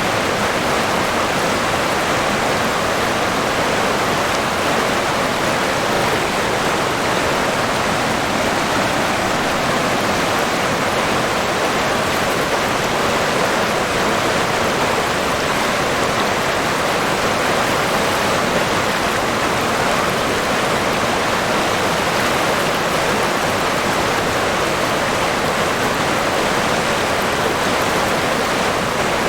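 River water rushing and burbling in a steady, even flow.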